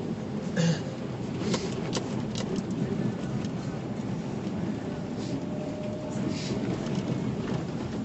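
Car driving, heard from inside the cabin: a steady low rumble of road and engine noise, with a few short clicks and knocks in the first couple of seconds.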